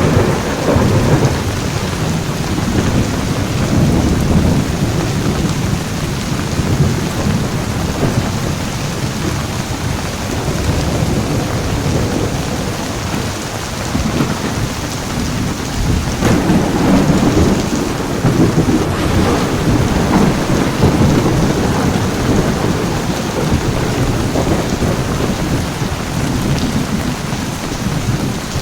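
Heavy rain pouring steadily under rolling thunder. Low rumbles swell at the start, again about four seconds in, and most strongly a little past the middle.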